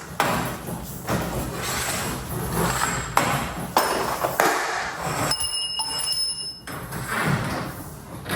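Metal tools and garage door hardware clinking and knocking, with a few sharp knocks and a clear metallic ring lasting about a second past the middle.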